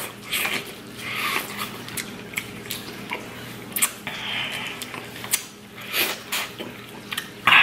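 Close-miked biting and chewing of a fried, seasoned piece of food: irregular crunchy crackles and wet mouth sounds.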